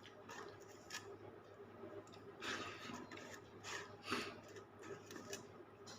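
Faint, irregular wet smacks and clicks of someone eating dal and rice, chewing and working the food, over a low steady hum.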